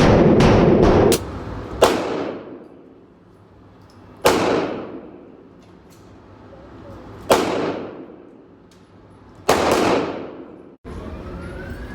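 9mm Glock 19 Gen 4 pistol in a CAA Micro Conversion Kit being fired on an indoor range, each shot echoing. A fast string of shots ends about a second in, followed by four single shots a few seconds apart. The shooting cuts off suddenly near the end.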